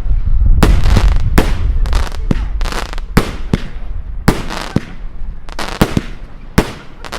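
Fireworks display: a rapid, irregular run of sharp firework bangs, about three a second, each with a short echoing tail, over a low rumble in the first couple of seconds.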